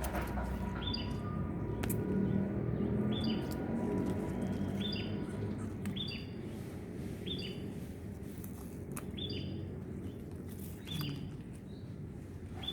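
A small bird chirping over and over, a short high two-part note about every second and a half.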